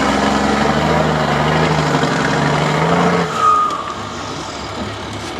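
Trial truck's engine running hard under load, then easing off about three seconds in, with a brief high squeal just after.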